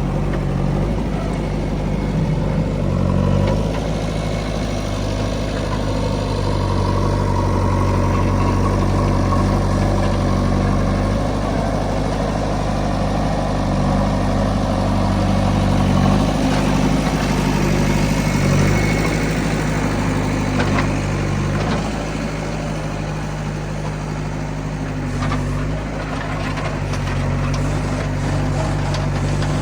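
Diesel engine of a heavy machine running steadily near idle, its note shifting slightly a few times.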